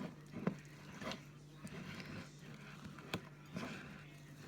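Faint, scattered clinks and scrapes of utensils and dishes being handled, over a low steady hum.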